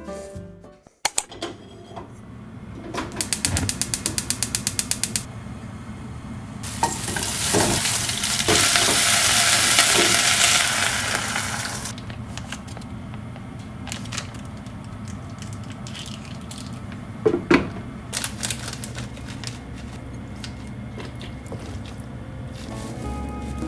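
Home kitchen cooking sounds: a quick run of even clicks, about six a second for two seconds, then a loud hiss for about five seconds, then scattered light knocks and clicks over a low steady hum.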